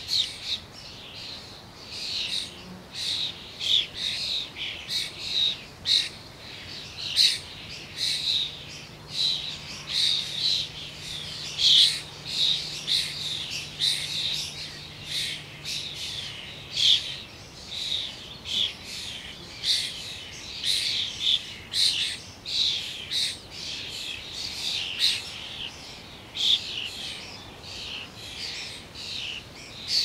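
Birds chirping and calling, many short high calls overlapping in a dense, unbroken chorus.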